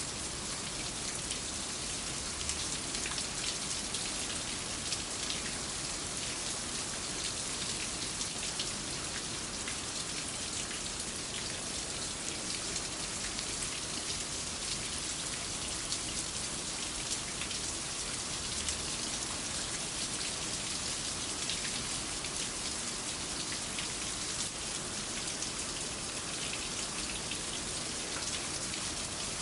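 Steady rain: an even hiss with a dense patter of individual drops.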